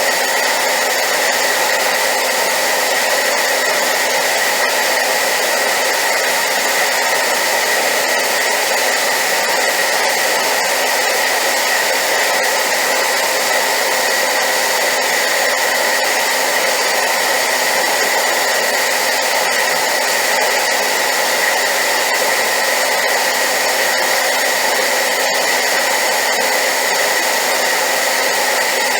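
Hair dryer running steadily on high power: a loud, even rush of air with a steady motor whine.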